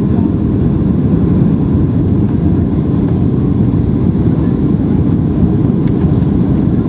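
Boeing 737-800's CFM56 turbofan engines and rushing airflow heard from inside the cabin on final approach: a loud, steady low rumble with no change in level.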